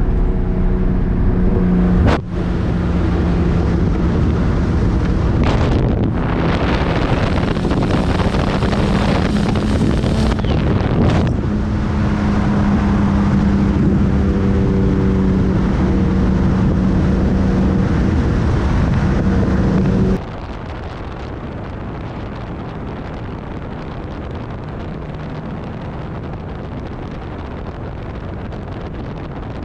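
Nissan R33 Skyline's straight-six engine running while driving, with brief dips in its note about two, six and eleven seconds in. About twenty seconds in the engine hum drops out, leaving a quieter, steady rush of wind and road noise.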